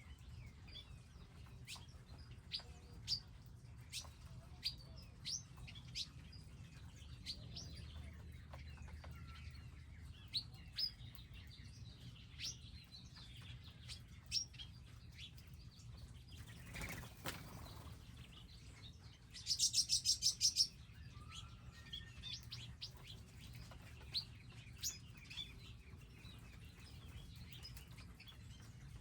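Small wild birds at garden feeders chirping with many short, high notes throughout. A little past halfway there is a brief whoosh, and soon after one bird gives a loud, fast trill of about a dozen notes.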